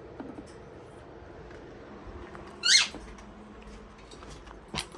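A pet parrot gives one short, sharp chirp about halfway through, falling in pitch. A sharp click comes near the end.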